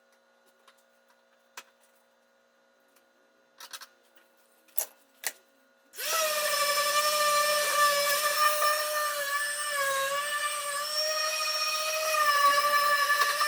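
A few faint clicks, then about six seconds in a handheld electric power tool starts and runs with a steady whine that sags and recovers slightly in pitch as it takes load.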